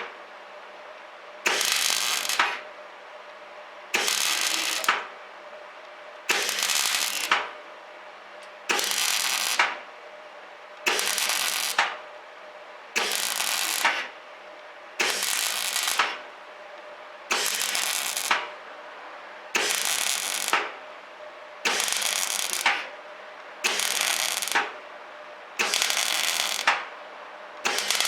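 Semi-automatic (MIG) welder arc crackling in short bursts of about a second, about every two seconds, some thirteen times: stitch welding a steel patch plate onto a Suzuki Jimny JB23 bulkhead. A faint steady hum carries on between the bursts.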